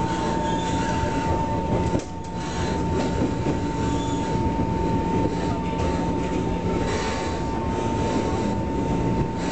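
Train running along the track, heard from inside the carriage: a steady rumble of wheels and running gear with a constant high whine over it. The noise dips for a moment about two seconds in.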